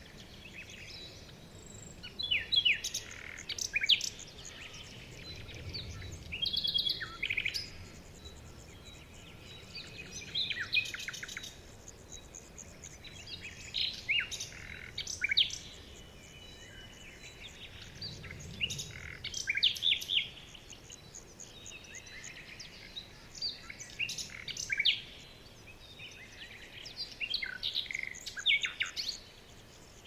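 Songbird singing: a short phrase of chirps and trills that recurs about every four seconds.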